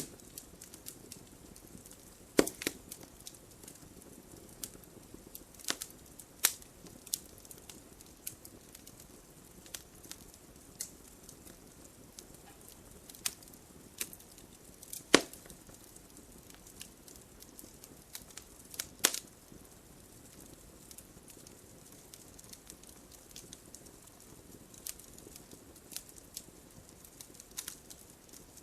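Wood fire crackling in a fireplace: scattered sharp pops and snaps over a soft, steady low hiss of burning, with a few louder pops spread through.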